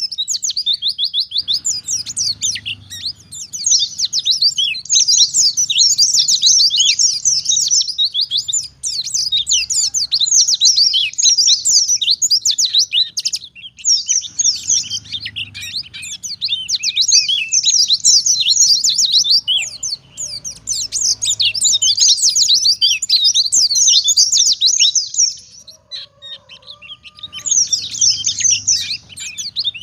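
White-eye (pleci) singing a long, fast, twittering song of high chirps and trills, with a very short break about halfway and a longer pause near the end.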